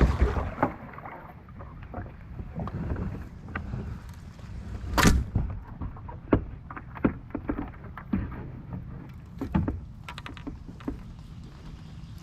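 Kayak out on the water: irregular knocks and splashes of paddle and hull, the loudest about five seconds in, over a steady low rumble.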